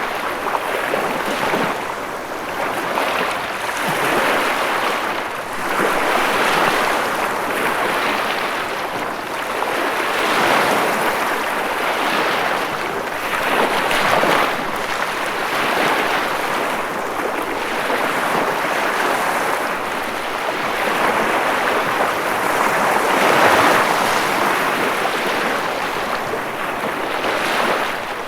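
Ocean waves washing onto a shore, a continuous rushing hiss that swells and falls back every few seconds.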